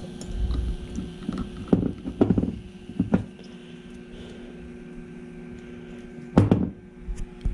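Handling noises on a model train layout: a few knocks and clunks in the first few seconds and a louder double knock near the end, over a steady hum.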